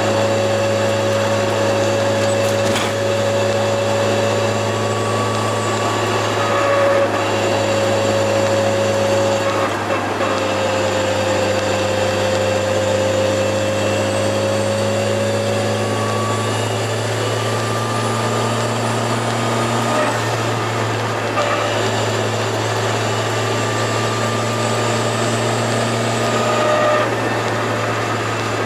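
Turbocharged Toyota AE86 four-cylinder engine and exhaust at a steady cruise: a constant low drone with steady tones above it, and a faint high whine that rises slowly and falls away about twenty seconds in.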